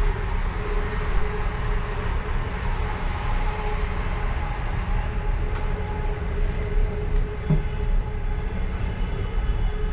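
Passenger train car running along the rails, heard from inside the last car: a steady low rumble with a constant hum. A few brief hisses come between about five and seven and a half seconds in, with a faint knock near the end of them.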